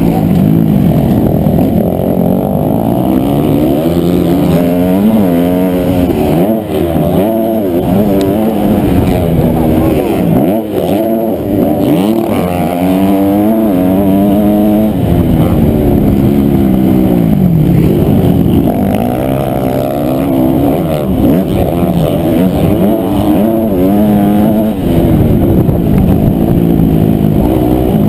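Honda CRF250R's single-cylinder four-stroke engine racing around a motocross track, its pitch rising under throttle and dropping on shifts and braking every second or two.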